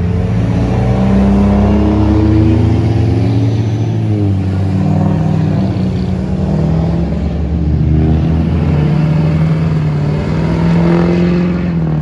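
Diesel pickup truck engine running loud and deep, its pitch sagging slowly and climbing again as the throttle changes.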